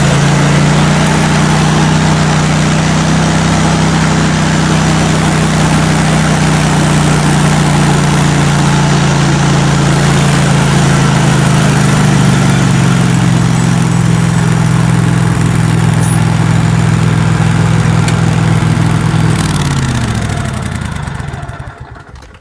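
An engine idling steadily, then slowing and dying away near the end as it is shut off.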